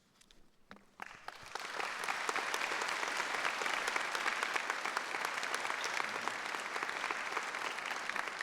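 Audience applauding in a large hall, a dense steady clapping that starts about a second in.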